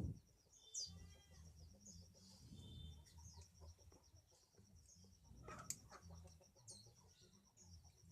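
Near silence: faint bird calls in the background, with one sharp click about two-thirds of the way through.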